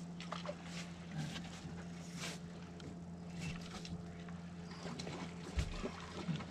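A motorboat's engine running with a steady low drone, with scattered small clicks and splashes over it.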